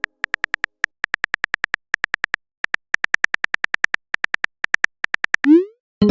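Keyboard typing sound effect: quick, identical clicks in uneven runs, about seven a second, then a short rising pop about five and a half seconds in.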